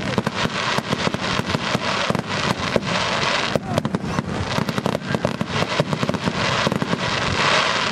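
Aerial fireworks bursting in quick succession: many sharp bangs a second over a dense crackle of sparkling stars.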